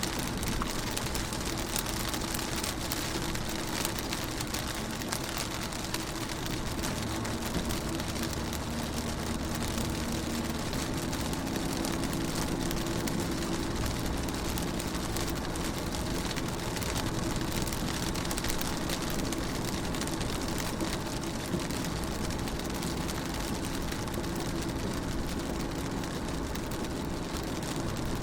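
Rain falling on a car window, a steady patter of many small drops, with a low steady hum underneath.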